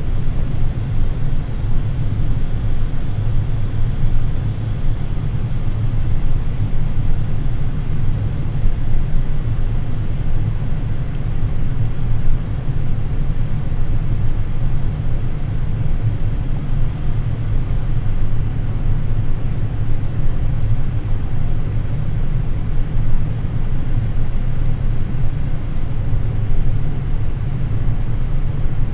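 Steady low rumble of airflow and engines inside the cockpit of a Boeing 787 on final approach, even throughout with no clear changes.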